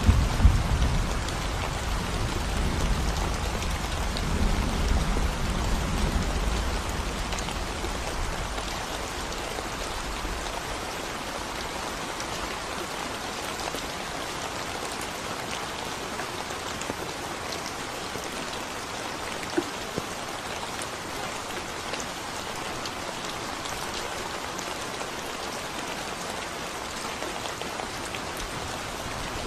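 Steady rain falling on a concrete road, with a low rumble of thunder dying away over the first several seconds.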